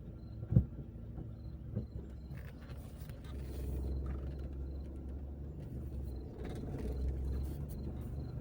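A car driving, with a steady low rumble of engine and road noise that grows heavier about three seconds in. A sharp knock about half a second in and a smaller one near two seconds stand out above the rumble.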